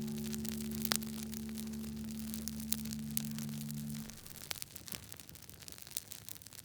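Wood fire crackling, with sharp irregular pops over a soft hiss. A low held musical chord rings under it and stops about four seconds in, leaving only the crackle.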